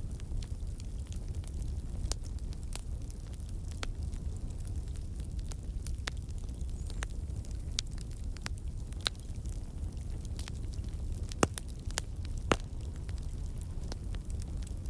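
Campfire burning wood logs: a steady low rumble of flames with scattered sharp crackles and pops from the wood, two louder pops near the end.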